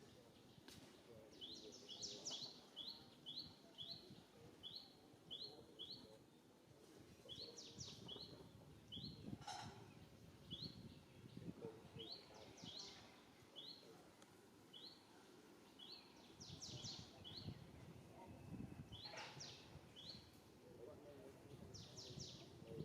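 Faint songbird calling over and over: short high chirps a few a second in runs, mixed with quick downward-sweeping note clusters, over a low rustle of background noise.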